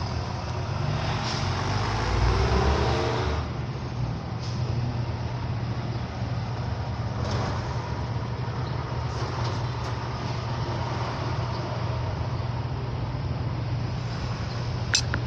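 Road vehicle noise: a steady low hum throughout, with a louder vehicle passing about a second in that fades by three and a half seconds. A sharp click near the end.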